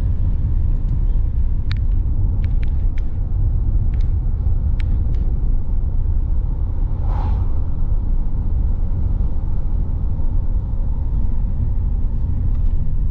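A car driving, heard from inside the cabin: the engine and tyres make a steady low rumble, with a few light clicks and one brief higher sound about seven seconds in.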